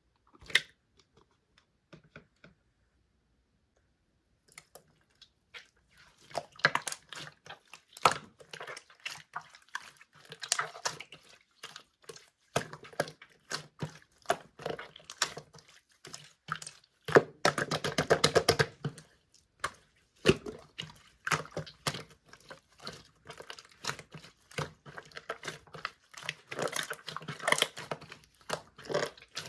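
Clear, jelly-textured slime squeezed and pressed by hand, giving dense irregular wet clicks and pops. A fast run of small pops comes about halfway through. The first few seconds are almost silent apart from one click.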